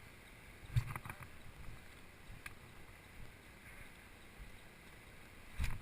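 Quiet, steady background hiss broken by two dull thumps with a click, one about a second in and one near the end.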